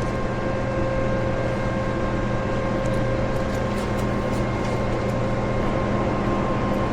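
Steady mechanical hum with several constant tones, unchanging throughout, with a few faint ticks in the middle.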